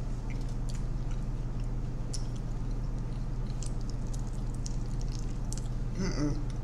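Honey barbecue chicken wings being eaten: wet chewing and small, faint mouth clicks over a steady low hum. A short hummed voice sound comes near the end.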